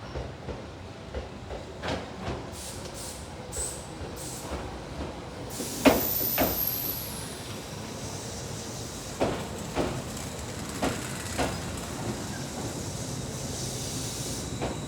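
Two-car Tobu 8000 series electric train pulling into a station: its wheels knock over rail joints at irregular intervals, with a loud knock and a high squeal falling in pitch about six seconds in. A hiss of air builds near the end as the train comes to a stop.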